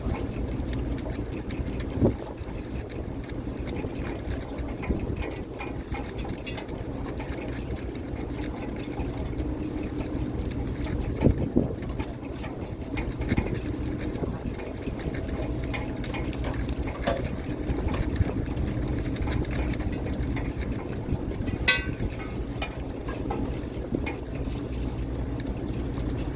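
Fishing boat's engine running steadily, with a few sharp knocks now and then, the loudest about two, eleven and twenty-two seconds in.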